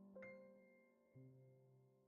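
Quiet, slow piano music: a few soft notes, each left to ring and fade before the next.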